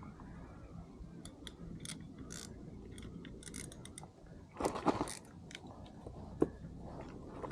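Fishing reel clicking on and off as the drag is adjusted while a fish pulls on the line, with a short louder scuffle about halfway through. The drag is set too light for the fish.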